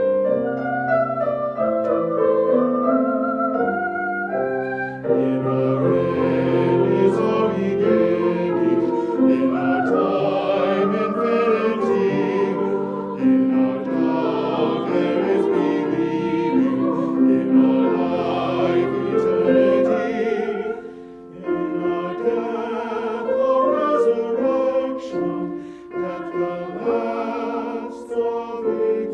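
Choir singing a slow hymn or anthem in several parts, voices holding notes with vibrato over keyboard accompaniment, with a short pause about two-thirds of the way through.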